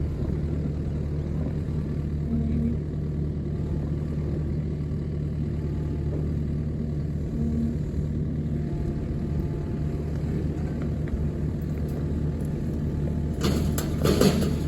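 A vehicle engine running at a steady speed, a low even drone as if driving along. Near the end comes a short, loud rattling clatter.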